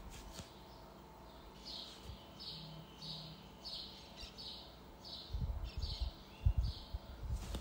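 A bird chirping over and over, short high chirps about one every two-thirds of a second, starting about a second and a half in. Dull low bumps come in over the last two seconds.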